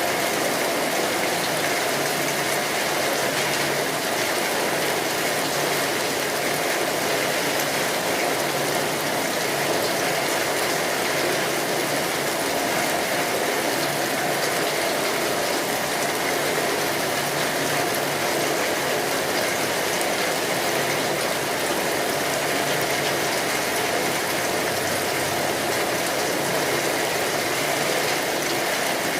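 Steady rain on a tin roof: a dense, unbroken patter of drops ticking on the metal, mixed with the crackle of a wood fire.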